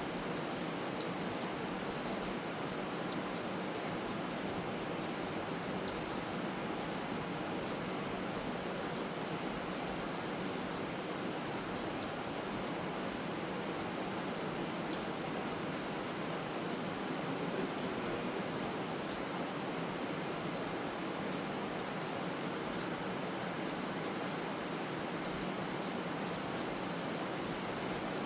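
Sparrow chirping in short, high, scattered notes, roughly one or two a second, over a louder, steady rushing noise.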